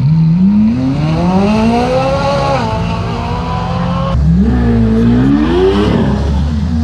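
Sports car accelerating hard away from the start line, its engine pitch climbing through the gears and dropping at each upshift. About four seconds in, a second car's engine rumbles deep and close and revs up.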